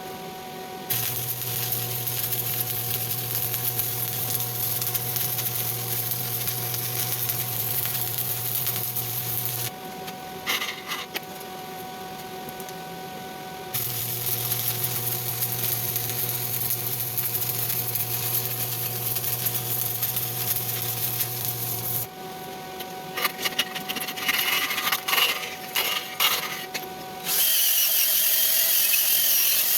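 Stick welding arc burning with a steady hum and crackling hiss, in two long runs broken by a short pause about ten seconds in. Near the end come irregular crackles, then a louder, hissier arc.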